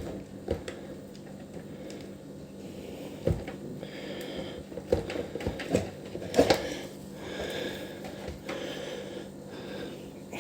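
Scattered clicks and knocks of plastic parts and wire connectors being handled and unplugged while a dishwasher's tub and sump assembly is taken apart, with some scraping and a steady low hum underneath.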